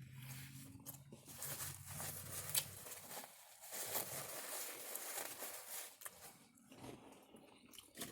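Chewing and lip-smacking of someone eating a sandwich, a wet crackle of many small clicks, with a low hum under the first few seconds.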